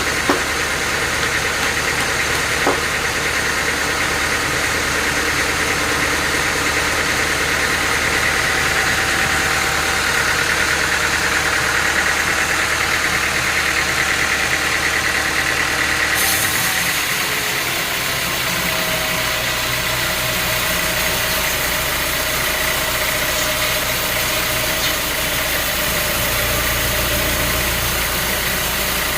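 Sawmill machinery running steadily with an engine-like hum, the sound changing abruptly about halfway through to a hissier run with a different low drone.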